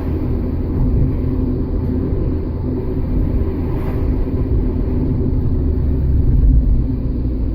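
Steady low rumble of a car driving: engine and road noise with a faint steady hum.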